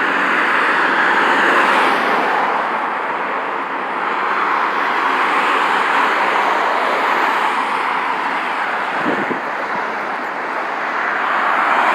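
Road traffic passing: a steady hiss of tyres on the road that swells and fades as vehicles go by.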